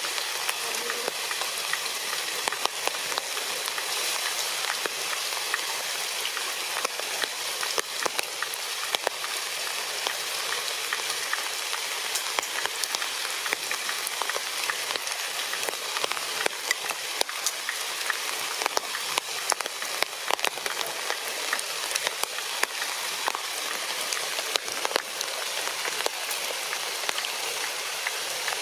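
Steady crackling hiss dotted with many small irregular ticks, the patter of rain on forest foliage.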